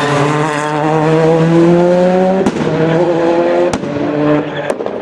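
Skoda Octavia WRC rally car's turbocharged four-cylinder engine accelerating hard, its pitch climbing and then dropping at each upshift. Each shift, about two and a half seconds in, again near four seconds and once more near the end, is marked by a sharp crack.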